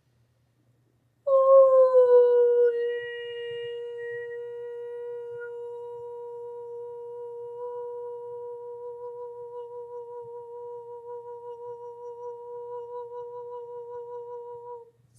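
A woman's voice toning one long held note, without words: it starts a little over a second in with a breathy, loudest attack and a slight drop in pitch, settles into a steady tone, wavers gently in its second half, and stops just before the end.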